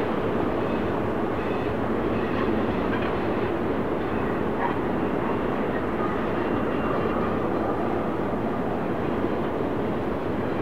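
BNSF intermodal freight train rolling past steadily, its cars making a continuous rumble. Brief faint high-pitched wheel squeals come and go.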